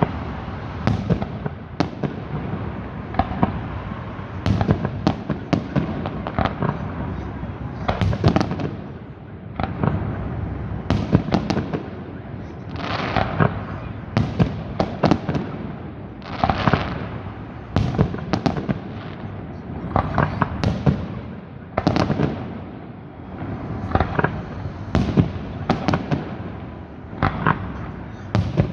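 Fireworks salute going off continuously: a steady run of bangs and crackling bursts, with louder clusters every two to three seconds.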